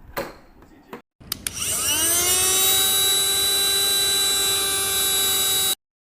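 Cordless mini car vacuum switched on with a click, its small motor spinning up in a rising whine and then running at a steady high-pitched whine, which cuts off suddenly near the end.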